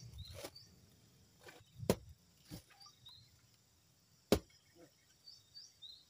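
A few scattered sharp knocks, the two loudest about two and four seconds in, over faint high chirping.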